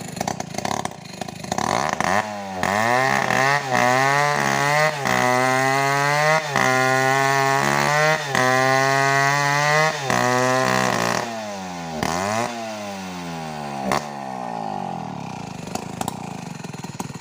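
Stihl two-stroke chainsaw revved up to full throttle about two seconds in and held there, with a few brief dips, then let back down to idle about eleven seconds in.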